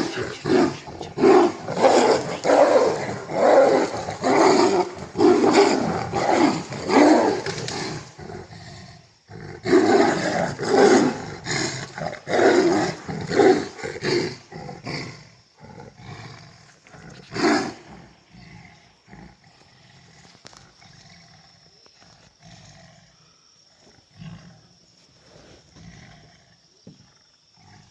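Tigers fighting, giving roars in quick succession in two long bouts, then one last loud roar at about seventeen seconds. After that it goes quiet except for a steady, high insect buzz.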